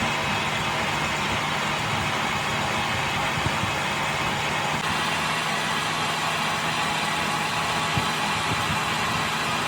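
A machine running steadily with a constant low hum under an even noise, unchanged throughout.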